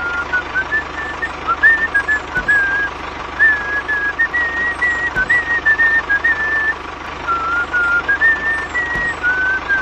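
A whistled tune of short notes hopping up and down, over a steady low hum.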